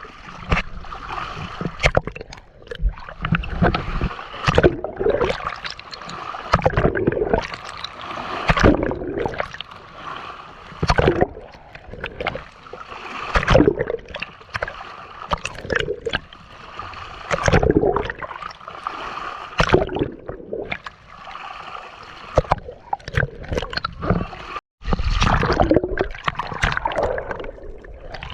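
Water splashing and gurgling in irregular bursts, with low thumps among the splashes.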